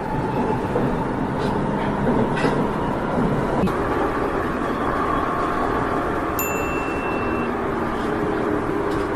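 Subway train running, a steady rumble with a short high beep about two-thirds of the way through.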